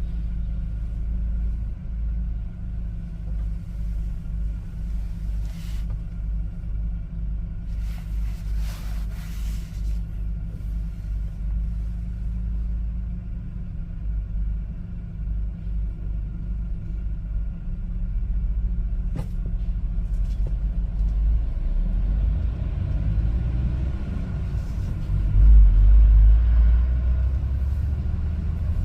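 One-ton LPG cargo truck driving, a steady low rumble of engine and road noise. It grows louder about two-thirds of the way through and is loudest for a couple of seconds near the end.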